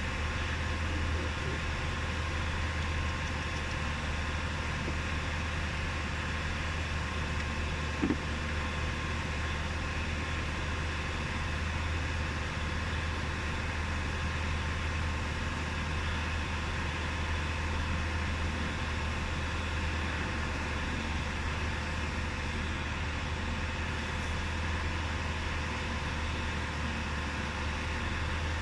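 Steady low engine hum, like a vehicle idling, with one short click about eight seconds in.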